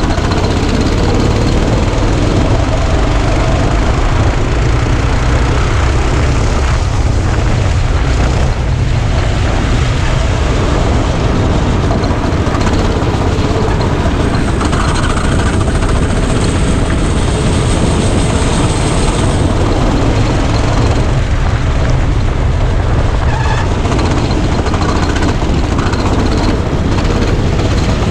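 Go-kart engine running continuously at speed, heard from a camera mounted on the kart, mixed with heavy wind and track noise.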